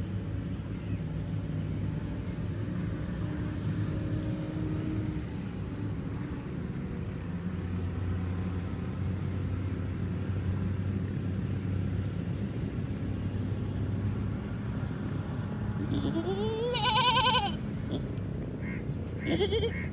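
A goat bleats once loudly, a long wavering call about three-quarters of the way through, then gives a shorter bleat near the end, over a steady low hum.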